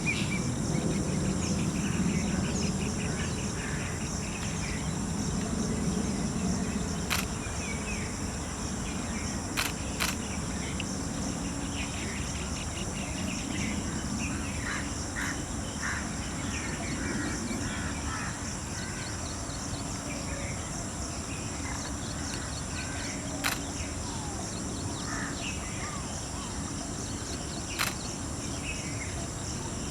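Outdoor nature sound: a steady high insect drone with scattered short bird calls and chirps, and a few sharp clicks.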